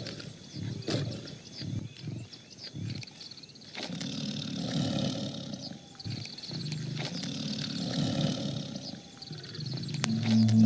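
Tiger growling and roaring: a run of short growls, then two longer roars of about two seconds each. Music begins near the end.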